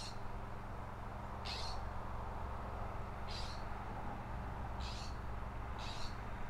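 A bird calling: five short, high, sharp calls spaced one to two seconds apart, over a steady low background rush.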